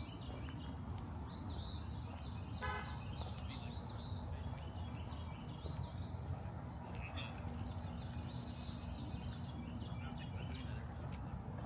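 Birds calling, a short high arched note repeated every second or so, with a brief rattling call about three seconds in, over a steady low rumble of distant city traffic.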